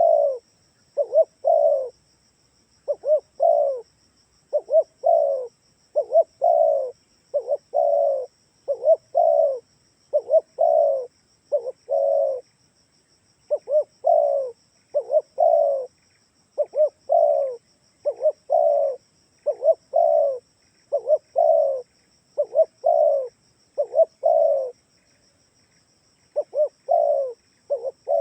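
Spotted dove (tekukur) cooing over and over: each phrase is a couple of short notes followed by a longer falling coo, repeated about every second and a half, with one longer pause near the end. This is the call used as a lure to draw wild doves in.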